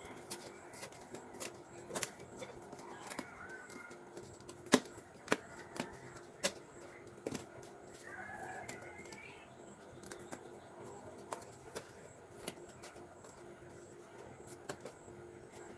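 Scattered sharp clicks and taps throughout, with a chicken clucking in the background a couple of times and a faint steady hum.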